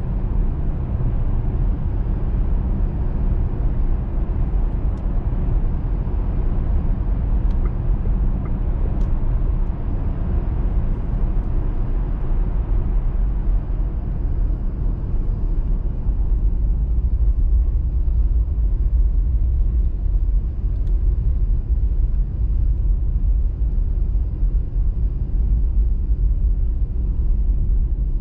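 Steady low rumble of a car driving on a snowy highway: engine and tyre road noise.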